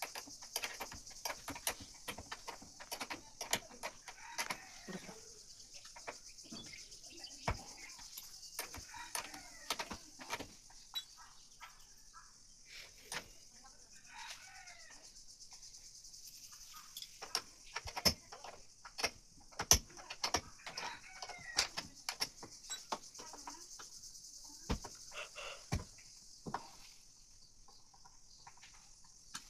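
Short animal calls now and then, with scattered sharp clicks and knocks and a steady high hiss. The loudest knocks come about 18 and 20 seconds in.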